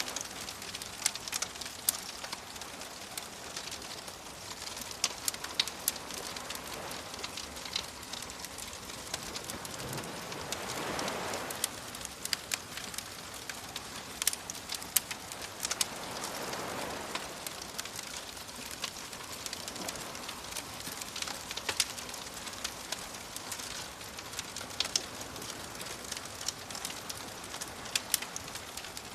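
Bonfire crackling with frequent sharp pops over a steady hiss, mixed with soft waves washing in; two waves swell up, about ten and sixteen seconds in.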